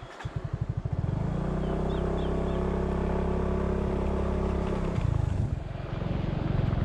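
A small engine starts with separate firing beats and then runs steadily. Its note dips about five seconds in and picks up again near the end.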